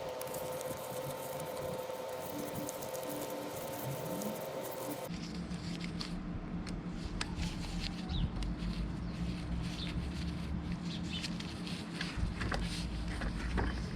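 Clicks and light knocks of tools and parts being handled during work on a starter motor. A steady hum underneath stops abruptly about five seconds in, and after that the clicks come thicker, over a low rumble.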